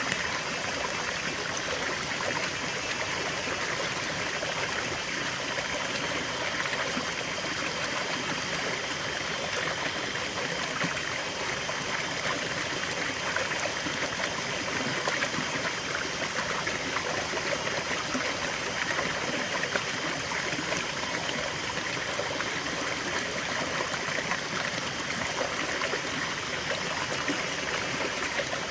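Small stream of water running and trickling steadily, a continuous babbling splash.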